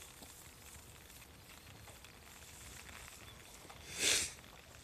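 Faint steady hiss of light rain on a wet road, with one brief, loud rustling swish about four seconds in.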